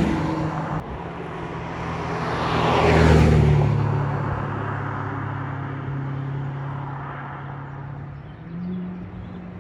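Ferrari sports cars driving past one after another. One passes loudest about three seconds in, then engines run on at low revs with a steady deep note that lifts slightly near the end.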